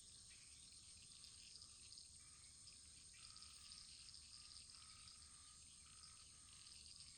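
Wood fire burning in a fireplace, faint: a steady hiss with dense light crackles and a few short, faint high tones now and then.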